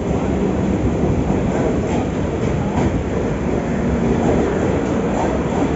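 Passenger train running on the rails: a steady, dense rumble of wheels and carriage, with a few faint clicks of rail clatter.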